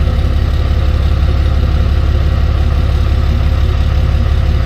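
Truck engine idling steadily, a loud low hum that does not change.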